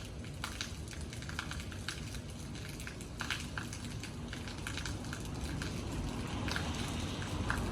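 Rain falling, with drops tapping irregularly on a hard surface over a steady low rumble.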